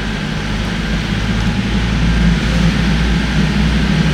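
Tender boat's engine running underway, a steady low drone under a broad hiss, growing slowly louder.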